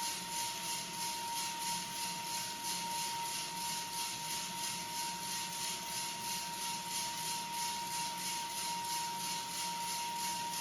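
Coffee beans tumbling in a rotating roaster drum, an even shaking rattle that pulses about four or five times a second, over a steady high whine.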